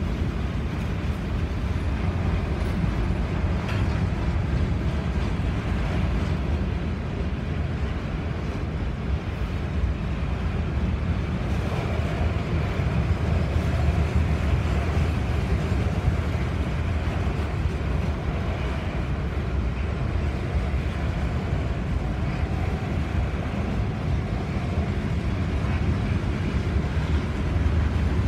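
Freight train of covered hopper cars rolling across a steel girder bridge: a steady low rumble of wheels on the rails.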